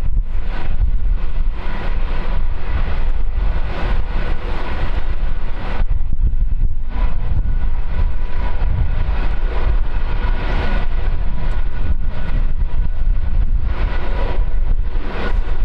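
Aircraft jet engines running, a faint steady whine under heavy wind buffeting on the microphone that comes in gusts.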